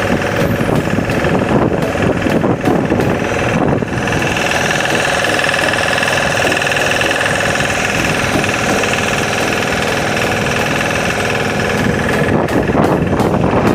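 Motorboat engine running steadily, with a rapid knocking beat.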